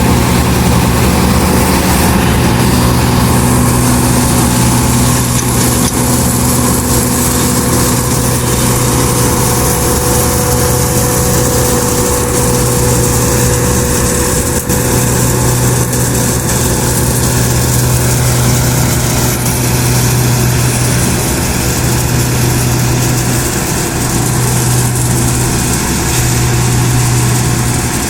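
Farm tractor's diesel engine running steadily at constant speed.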